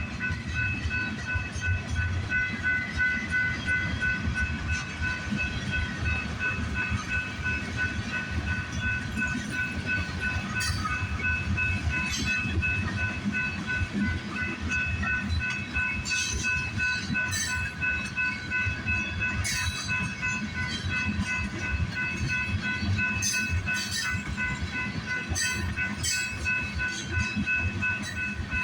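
Freight cars of a CPKC train rolling past at low speed: a steady rumble of wheels with a continuous clatter over the rail joints, and sharp metallic clicks from about a third of the way in. A level-crossing bell rings steadily throughout in quick, even strokes.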